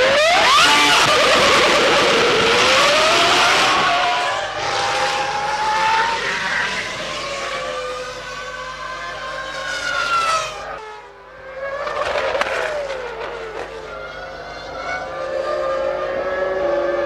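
Formula One cars' V10 engines at high revs, several cars going by in turn, the pitch climbing sharply at the start and rising and falling as they pass. The sound dips briefly about eleven seconds in before the next car comes through.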